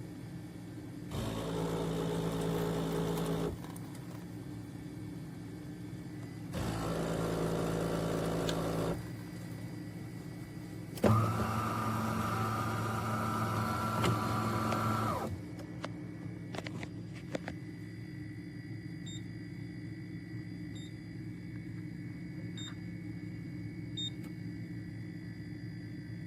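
Automatic espresso machine whirring in three separate runs of two to four seconds each, the third starting with a sharp click. Near the end come a few soft electronic beeps, spaced a second and a half to two seconds apart.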